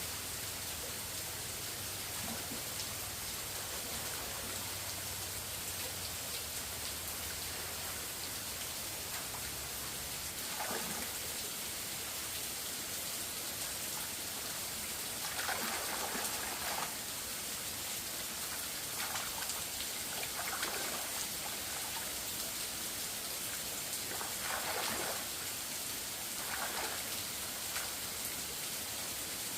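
Steady hiss like falling rain, with a few brief louder rustling noises a few seconds apart in the second half.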